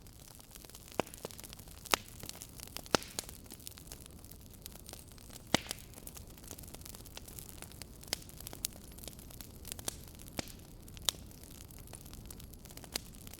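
Wood fire in a fireplace crackling: irregular sharp pops and snaps over a steady low hiss of the flames, the loudest pops about two, three and five and a half seconds in.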